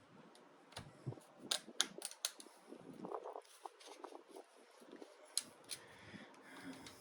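Scattered sharp clicks and light knocks of metal parts being handled while a Craftsman radial arm saw is taken apart by hand. There is a cluster of clicks in the first half and two more later on.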